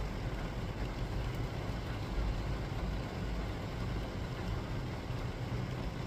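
Steady rain noise with a deep low rumble underneath.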